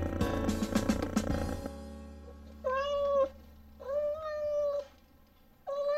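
Background music fades out in the first couple of seconds, then a cat meows: two drawn-out meows about a second apart, and a third begins near the end.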